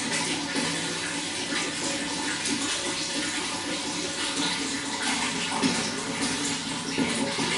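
Running water flowing steadily, a continuous rushing hiss with small splashes and gurgles flickering through it.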